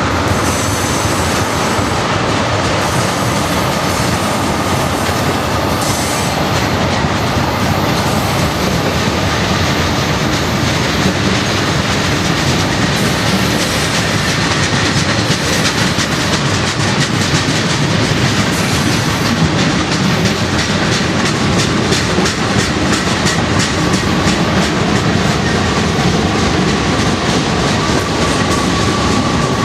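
Freight train cars rolling past steadily, their wheels clicking over rail joints, with a faint thin squeal of wheels against the rail.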